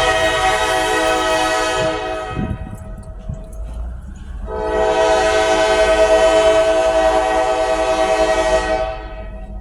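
Diesel freight locomotive's air horn sounding two long blasts, a steady multi-note chord. The first ends about two seconds in, and the second starts a couple of seconds later and holds for about four seconds, over the low rumble of the train.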